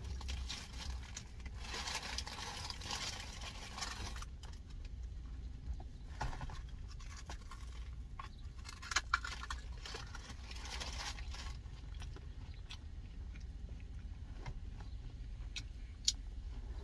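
Close-up crunching and chewing of cinnamon twists, crisp puffed snack pieces, with scattered sharp crunches over a steady low hum.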